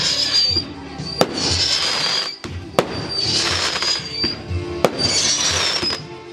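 Fireworks going off: several sharp single bangs a second or two apart, with swells of crackle and hiss between them. Music with a steady beat plays underneath.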